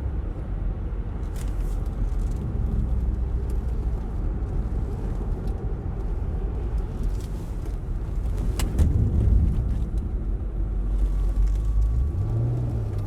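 Car engine and road noise heard from inside the cabin while driving: a steady low rumble with a sharp click about eight and a half seconds in, and the engine note rising near the end.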